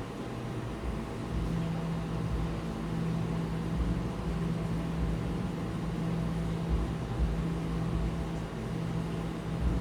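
Café background noise dominated by a steady low mechanical hum. A low droning tone joins it about a second in and holds.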